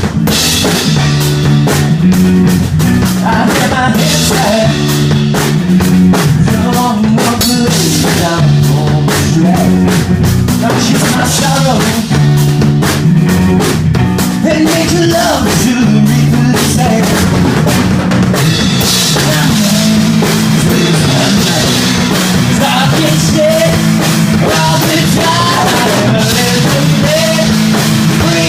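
Band music: a drum kit keeps a steady beat over a repeating bass line.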